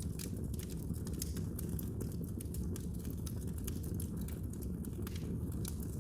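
Wood fire in a fireplace crackling, with many small sharp pops at irregular moments over a steady low rumble from the flames.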